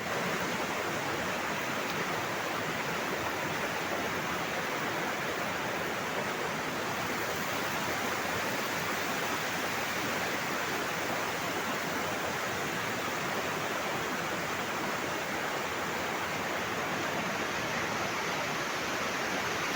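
Waterfall: falling water in a steady, even rush with no breaks.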